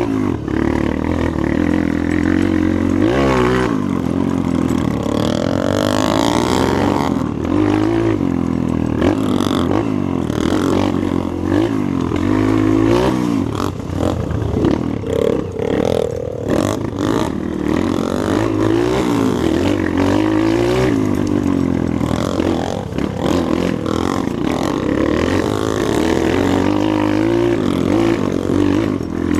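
Motorcycle engine running under riding load, its pitch rising and falling over and over as the throttle is opened and closed.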